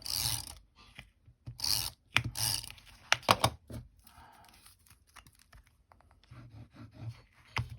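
Paper being handled at a craft table: several short rustling and rubbing swishes, then a few sharp clicks about three seconds in and another near the end.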